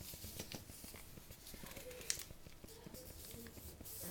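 Paper crinkling and creasing faintly as a paper airplane's winglet is folded and pressed by hand: scattered small crackles, with one sharper tick about two seconds in.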